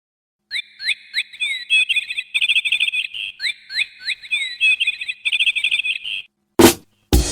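A bird's whistled song: a phrase of sweeping high notes that runs into a rapid trill, given twice, the second a repeat of the first. Near the end comes a single loud hit, then a band starts up with drums.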